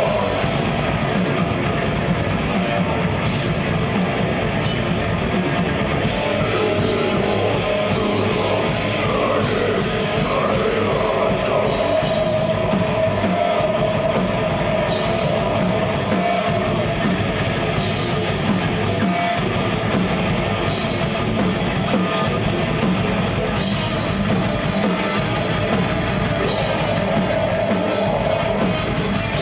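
Live metal band playing: distorted guitars and a drum kit at full volume without a break.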